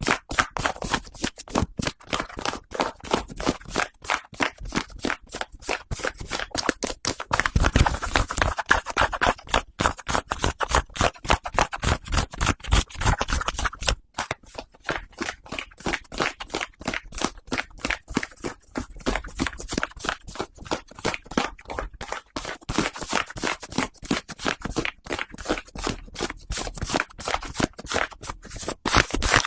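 Close-miked ASMR hat triggers: a hat's brim and fabric being rubbed and scratched in quick, continuous strokes.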